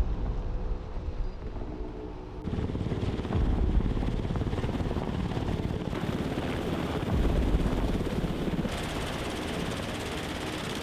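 Military helicopter in flight: heavy rotor and engine noise with a deep rumble, the sound changing abruptly a couple of times.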